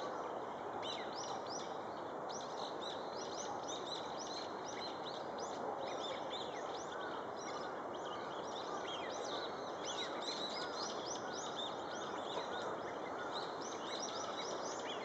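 Many small birds chirping together: dense, overlapping short high notes that sweep downward, over a steady background rush.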